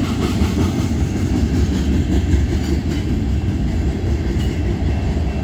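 Freight train of railroad tank cars rolling past: a steady, low-pitched noise of steel wheels on rail.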